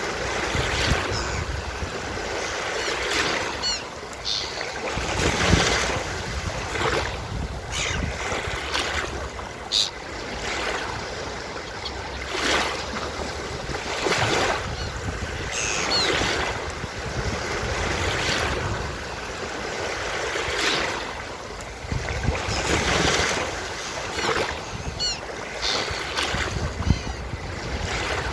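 Sea waves breaking and washing up on a beach in repeated surges, with seagulls calling briefly now and then above the surf.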